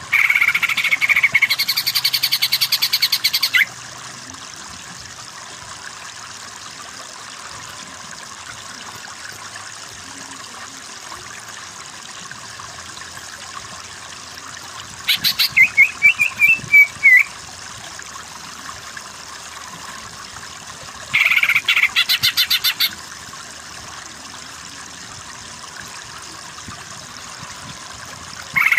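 Greater green leafbird (cucak ijo) singing in three loud bursts of rapid, repeated notes, each two to four seconds long, with long gaps between, over the steady sound of running water.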